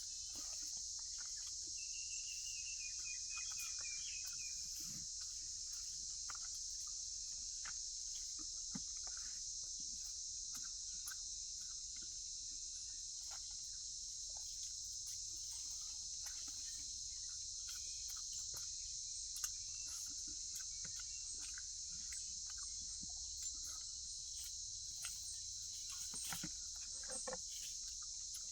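Steady high-pitched drone of insects, crickets or cicadas, with faint scattered clicks and rustles. A short descending bird trill comes about two seconds in.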